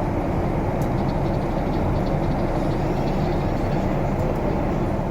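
Steady cabin rumble of a Boeing 737-800 airliner, the even roar of engines and airflow heard from inside the passenger cabin.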